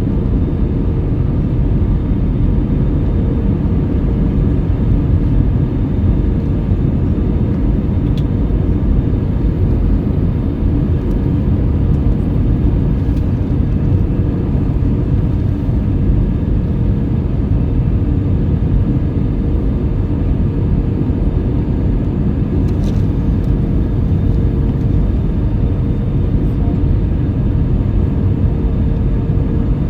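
Airbus A319 cabin noise: a steady drone of jet engines and airflow with a constant hum tone running through it, unchanging throughout.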